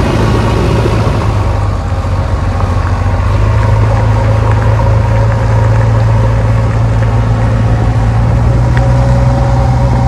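Heavy diesel engine running steadily and loudly with a deep, even drone.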